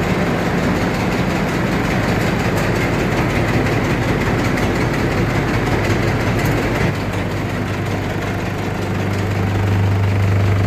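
A motor vehicle's engine running steadily. About seven seconds in the sound drops slightly, and a strong steady low hum comes up near the end.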